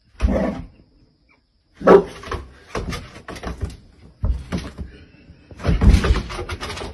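Dog barking in loud, short outbursts, one at the start and one about two seconds in, amid a run of knocks and scuffling that grows busier near the end.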